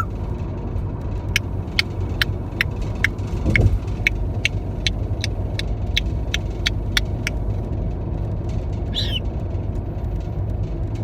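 A steady low rumble with a run of sharp, evenly spaced clicks, about two to three a second, from about a second in until about seven seconds in. Near the end comes one short chirping call from the parrot.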